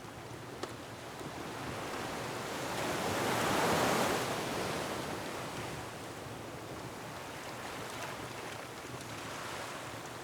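Ocean waves surging against a shore: one wave builds, peaks about four seconds in and washes back, over a steady rush of surf. A wood fire gives a few faint crackles, one clear pop just under a second in.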